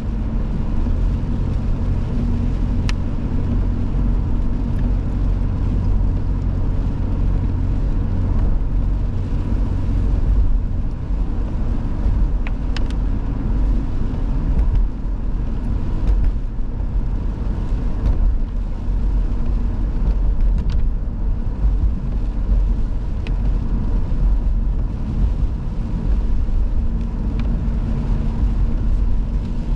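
Car driving along a road, a steady low rumble of engine and tyres, with a few faint ticks.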